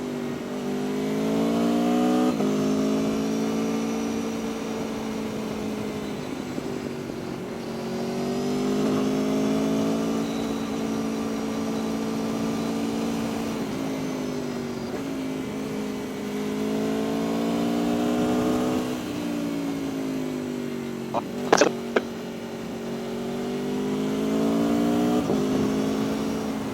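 Aprilia Tuono V4 1100 RR's V4 engine running under the rider, its pitch climbing under acceleration several times, each climb cut off by a sudden drop in revs. A brief, sharp, loud knock or pop sounds about three quarters of the way through.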